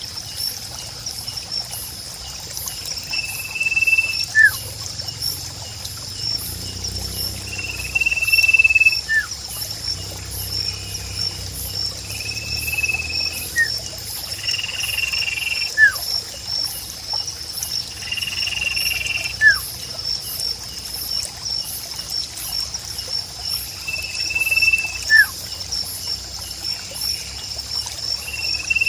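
A songbird (sirpu) repeating a whistled phrase about every four seconds: a held high note a bit under a second long, then a short downslurred note. The phrase is set over a steady, evenly pulsing high chorus of insects.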